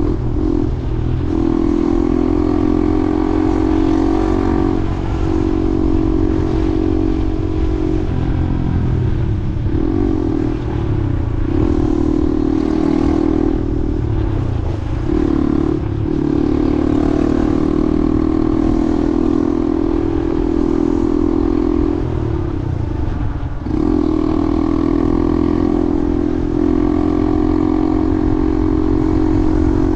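A vehicle's motor running at a steady speed while riding, its even drone dropping out briefly a few times, over a heavy low rumble of wind on the microphone.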